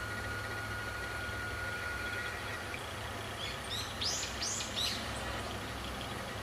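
A small songbird chirps three or four quick, high notes, each sweeping downward, about halfway through. Underneath runs a steady low outdoor rumble, and a thin, steady high tone fades out about two seconds in.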